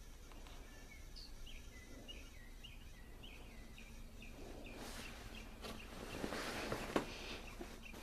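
A small bird chirping over and over, short high notes about two or three a second. About halfway through a rustling noise swells and fades, with a sharp click near the end as the loudest sound.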